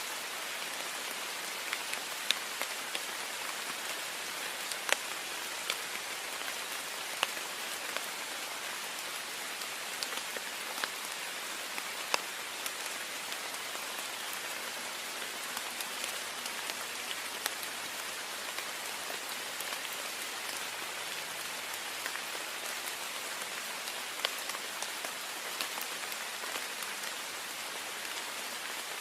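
Heavy rain falling steadily against a window pane, a dense hiss with frequent sharp ticks of individual drops striking the glass.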